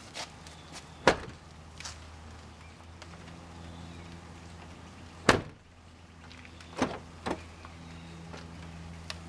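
A handful of sharp clunks and knocks from a Jeep Grand Cherokee's body panel being lowered and worked on its new gas struts, over a low steady hum. The two loudest come about a second in and about five seconds in, with lighter knocks near the end.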